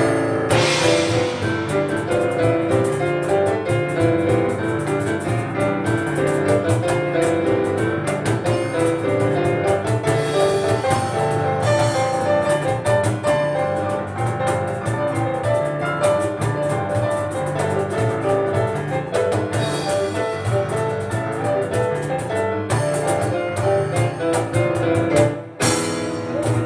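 Live piano and cajón instrumental: fast, busy piano lines over steady cajón hits, with a short break near the end before the playing picks up again.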